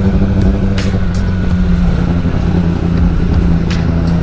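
Motorcycle engine running at steady revs on the move, with a constant low drone and a couple of brief sharp noises, about a second in and near the end.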